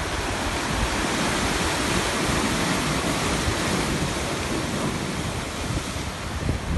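Sea surf washing ashore as a steady rush that swells a little midway, with wind rumbling on the microphone underneath.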